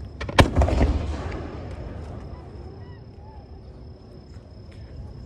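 Aerial firework shell bursting with a sharp bang about half a second in, followed by a short run of crackles and a low rumble that dies away over a second or two.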